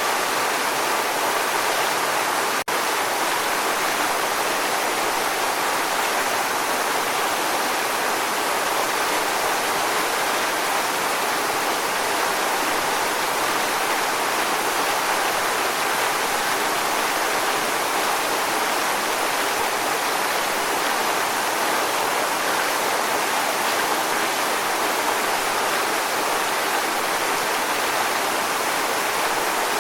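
Waterfall: a steady rush of falling water, a dense even hiss with little low end. There is a momentary dropout about two and a half seconds in.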